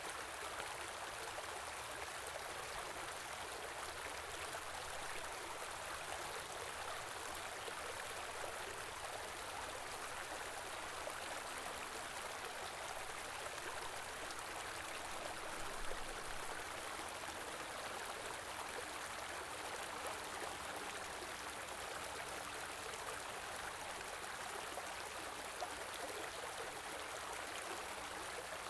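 Shallow winter stream flowing steadily, a continuous rush and gurgle of water. One short, slightly louder splash or knock comes about halfway through.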